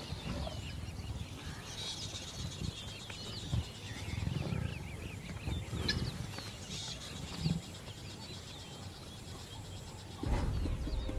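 Lions growling as they bring down a kudu, in several short low bursts, with birds chirping throughout.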